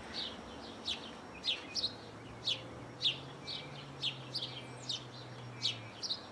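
Small songbirds chirping repeatedly: short, high, downward-sliding chirps, about two a second.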